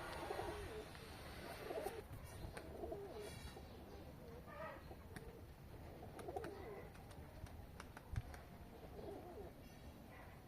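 Domestic pigeons cooing softly, with short low calls repeating every second or two.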